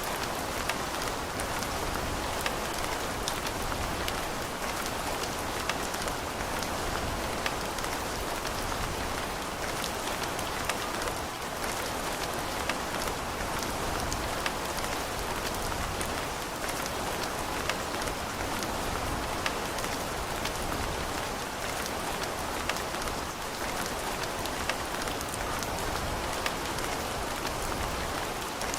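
Steady rain falling on hard surfaces, an even patter with individual drops clicking sharply here and there.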